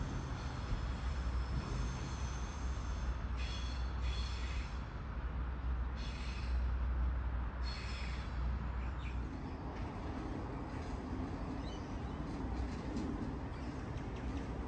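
Electric suburban trains rolling slowly through a junction of curved points, with a low rumble and short high-pitched wheel squeals. About nine seconds in the sound changes abruptly to a steadier, fainter hum as another train approaches in the distance.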